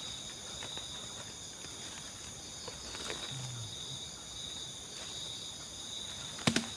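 Night insect chorus, a steady high-pitched chirring. Two sharp clicks come close together near the end.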